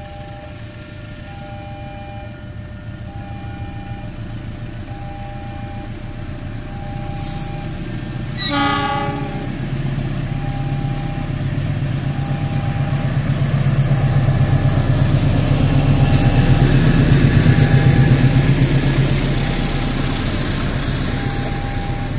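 CC206 diesel-electric locomotive hauling the Argo Parahyangan approaches and passes, giving one short horn blast about eight seconds in. Its engine rumble and the wheel noise swell to a peak near the end while a level-crossing warning signal beeps steadily about every second and a half.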